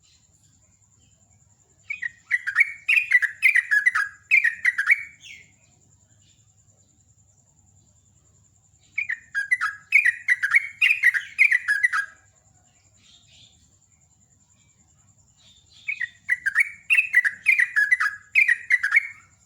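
Yellow-vented bulbul (trucukan) singing in three bursts of rapid, bubbly chattering notes, each about three seconds long, with pauses of a few seconds between them.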